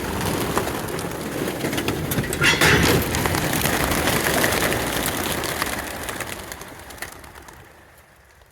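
A large flock of racing pigeons released at once: a dense clatter of wingbeats as the birds take off, fading away over the last few seconds.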